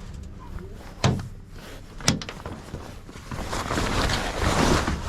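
Knocks from a sailing dinghy's rigging gear: two sharp knocks about a second apart, then a loud, even rustling noise from about three seconds in.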